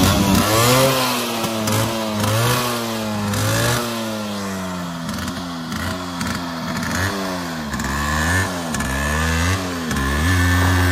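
Yamaha RX100's single-cylinder two-stroke engine revved up and down in repeated throttle blips, the blips coming quicker later on. It holds a steadier note near the end.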